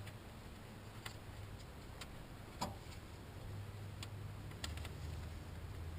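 A few scattered light clicks and taps of a part being handled and fitted back into the engine, over a low steady hum.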